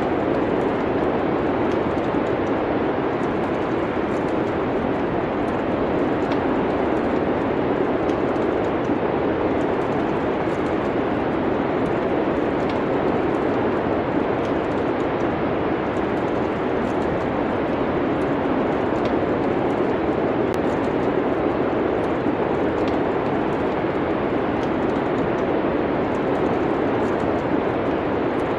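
Steady wind-and-snowstorm noise mixed with a log fire, faint small crackles and pops scattered over an even, unchanging hiss.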